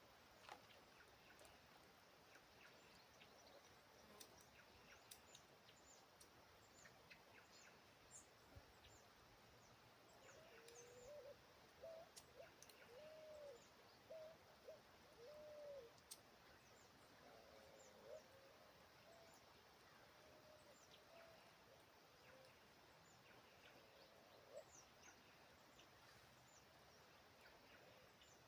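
Faint birds calling: scattered short high chirps throughout. A run of low, arching whistled notes comes in the middle, over quiet background noise.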